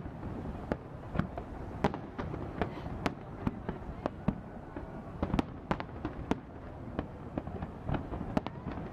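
Aerial fireworks shells bursting in quick succession: sharp bangs about twice a second, irregularly spaced, over a continuous low rumble of further explosions.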